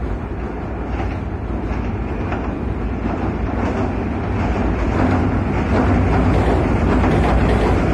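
Meitetsu electric trains crossing a steel girder railway bridge: a steady rumble of wheels on the rails that grows louder over the last few seconds as the nearer train comes close.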